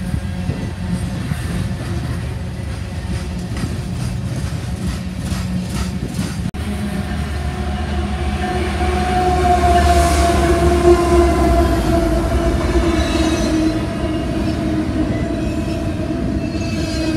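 Freight trains passing close: first a coal train's cars rumbling by, with steel wheels clicking over rail joints. Then a BNSF diesel locomotive leading a container stack train passes, growing louder as it goes by, with a steady tone that dips slightly in pitch.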